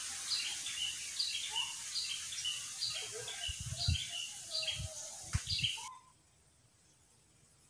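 Small bird chirping over and over, about twice a second, over a steady high hiss of outdoor background, with a few low thumps in the middle. The whole sound cuts off abruptly about six seconds in, leaving a much quieter background.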